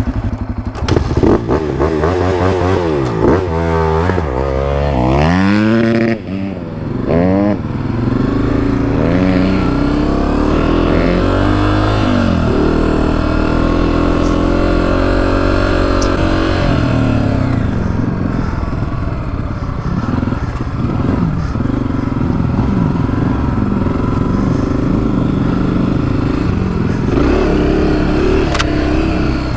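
Honda four-stroke single-cylinder dirt bike engine, revved up and down several times in the first few seconds. It then settles into running steadily under way, its pitch stepping up and down with the throttle and gears.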